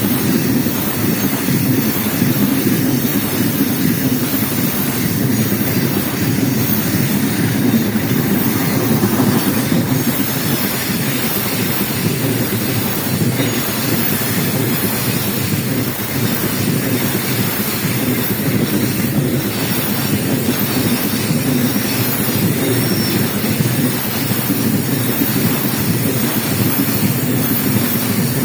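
Freight train rolling past steadily: the continuous rumble of wagon wheels on the rails.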